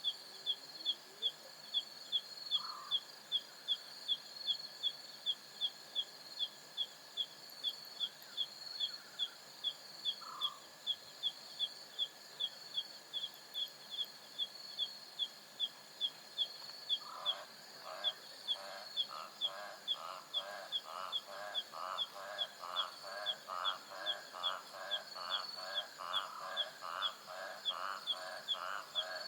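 Savanna night chorus: an insect chirps steadily, about two to three times a second, over a steady high insect trill. Two single short calls sound early on, and from about halfway another animal joins with a regular run of rasping pulsed calls, about two a second, that carries on to the end.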